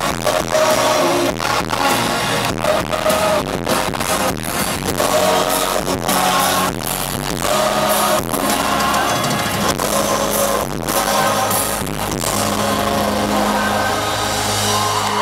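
Live pop band playing in a stadium: drums beating steadily under sustained chords and voices. The drum hits thin out near the end and a low chord is held as the song winds down.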